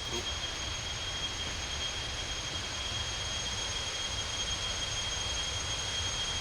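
Steady high-pitched insect drone in jungle, one shrill unbroken tone with a fainter overtone above it, over a low rumble.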